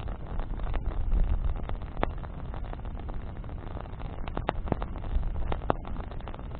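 Bonfire of branches burning, with irregular crackles and sharp pops over a steady low rushing. The pops are scattered, with a few louder ones about two seconds in and again past the middle.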